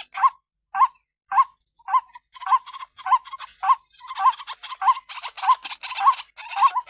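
White-breasted waterhen (ruak-ruak) calling, the female's call used as a bird lure: a hooked note repeated about every 0.6 s. The notes are spaced apart at first, then from about two and a half seconds in they run into a dense, rough chattering.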